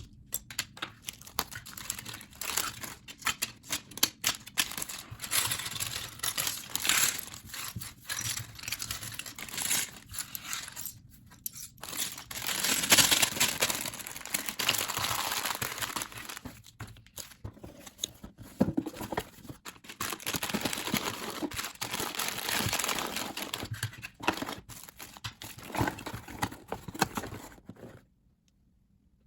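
Plastic bags crinkling and rustling, with many small clicks of plastic LEGO pieces being handled and packed away. The sound stops abruptly near the end.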